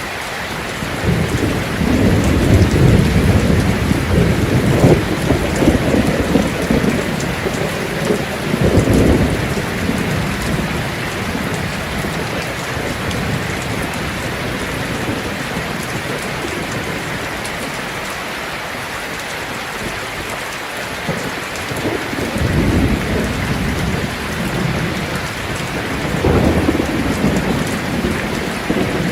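Heavy rain drumming steadily on a tin roof, with rolls of thunder rumbling low: a long roll starting about a second in and fading by about nine seconds, then two more rolls near the end.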